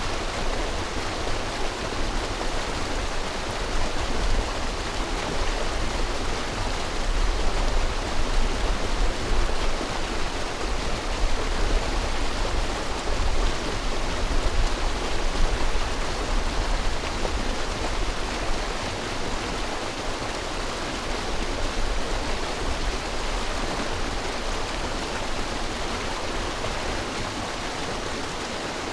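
River water flowing in a steady, even rush, with a low rumble underneath that grows stronger through the middle stretch.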